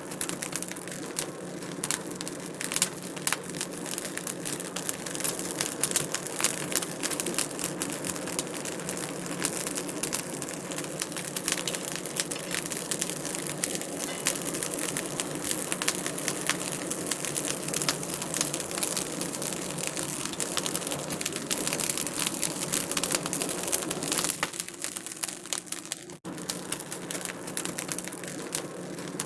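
Wood fire crackling, with dense irregular pops and snaps over a steady hiss and a low steady hum.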